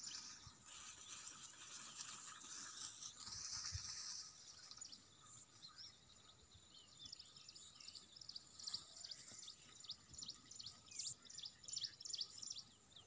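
Faint outdoor ambience with birds chirping: a soft high hiss at first, then a quick series of short, high chirps through the second half.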